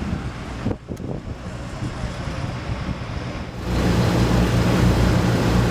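Outdoor background noise of road traffic with wind on the microphone; about two-thirds of the way in it turns suddenly louder, into a steady low rumble.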